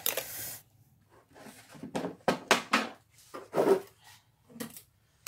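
Chopsticks stirring and lifting ramen noodles in a pot: a run of short scrapes and knocks, most of them two to four seconds in.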